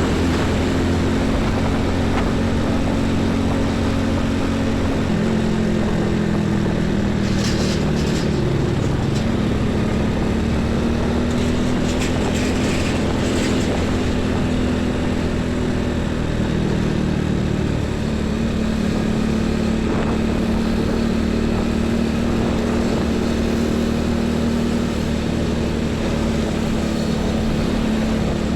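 Heavy trucks' diesel engines running past on a busy highway: a loud, steady drone whose pitch shifts every few seconds as one vehicle gives way to the next. A few short hisses sound about a third of the way in and near the middle.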